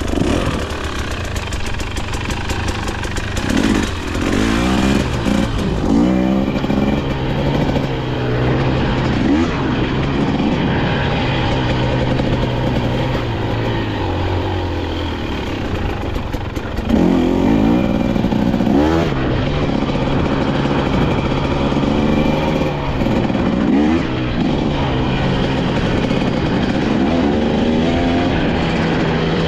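KTM 250 XC-W two-stroke dirt bike engine under way off-road, revving up and dropping back in repeated bursts as the throttle is worked, with the strongest rev about 17 seconds in.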